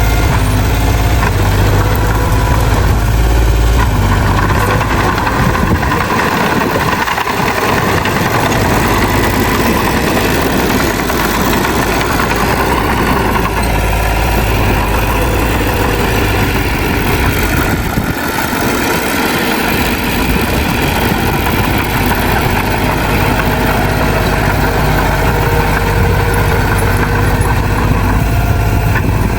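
Heavy diesel earthmoving engine running continuously and loud, its deep rumble easing twice, about seven and nineteen seconds in.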